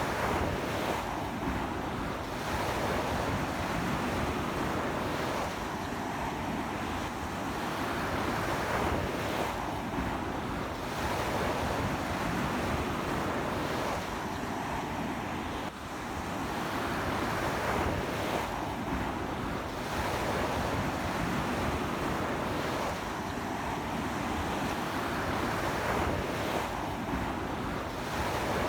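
Sea waves breaking and washing up a beach in a strong onshore wind, a steady roar of surf that swells and eases every few seconds. Wind buffets the microphone.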